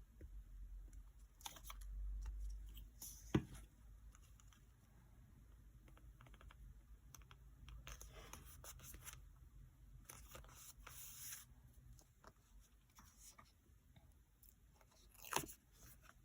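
Faint close handling of paper journaling materials: scattered light clicks and scratches, two stretches of paper peeling and tearing in the middle, and two sharper taps, one a few seconds in and one near the end.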